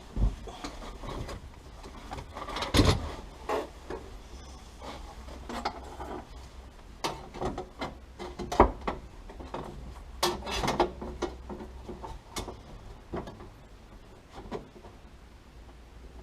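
Irregular knocks, scrapes and clatter of sheet-steel repair panels being handled and offered up to the car's floor, with a sharp knock about three seconds in and another, the loudest, near the middle.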